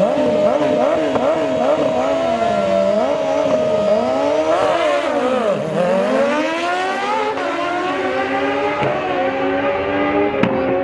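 Several racing motorcycle engines revving hard: one is held at a steady high pitch while others rev up and down about once a second. About halfway through, one engine's pitch drops and then climbs in a long rising sweep as it accelerates.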